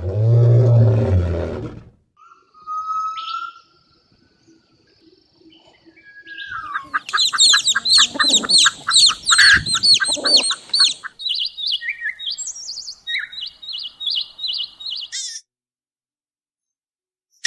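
A cow's low moo fading out in the first two seconds, then a songbird singing. The song is a quick run of repeated high chirping notes, about three a second, then shorter varied phrases. It stops about two seconds before the end.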